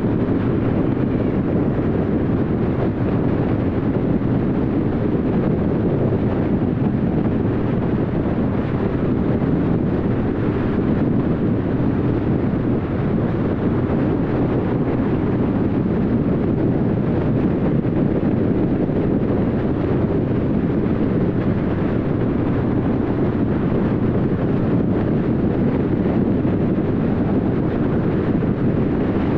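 Steady road noise of a car cruising at highway speed: tyre roar and engine hum with wind rush, with no change in level.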